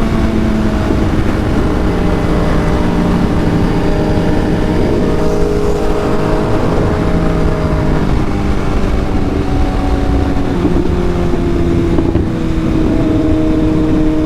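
Sport motorcycle engine running at speed, its pitch stepping up and down several times with throttle and gear changes, over a heavy rush of wind noise on the rider's microphone.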